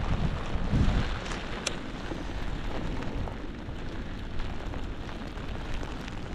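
Wind buffeting the microphone with rain falling, a steady hiss with heavy low rumbles from gusts in the first second that ease off after.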